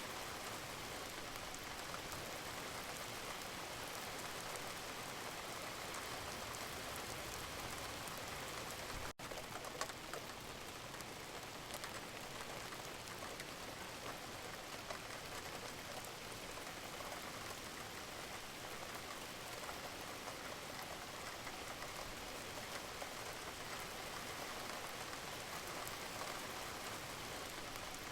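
Steady rain falling on a surface, an even hiss with scattered faint drop ticks. About nine seconds in it cuts out for a split second.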